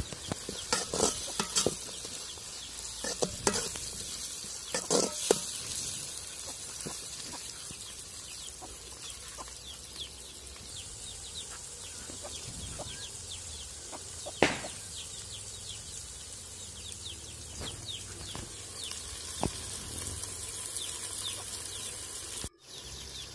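Chopped onions, tomatoes and green chillies sizzling in oil in an aluminium pot, being sautéed until soft. In the first few seconds a metal spatula knocks and scrapes against the pot, then only a steady sizzle goes on.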